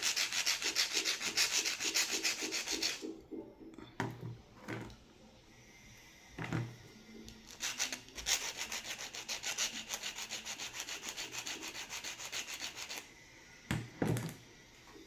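Rapid back-and-forth scraping of an abrasive on metal, several strokes a second, as rust is sanded off the heating-element terminal of an impulse bag sealer. It comes in two runs, with a few short knocks between them and near the end.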